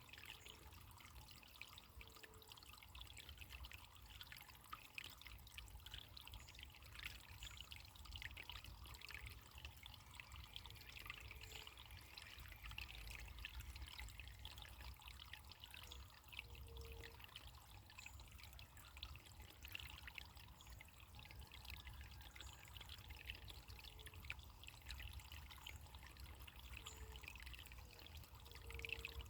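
Faint running water trickling and babbling steadily, like a small stream, over a low rumble.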